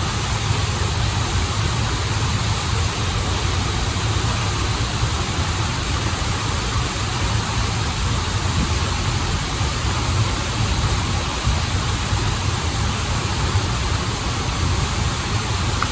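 Waterfall and rushing stream water: a steady, unbroken rush with a deep rumble underneath.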